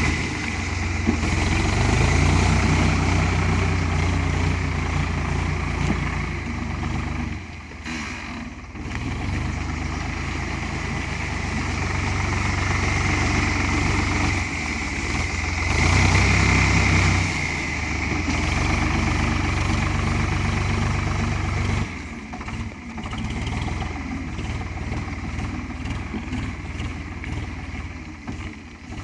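Ford 3600 tractor's diesel engine running while mixing clay, its speed and load rising and falling. It is louder about two seconds in and again around sixteen seconds, and eases off briefly near eight and twenty-two seconds.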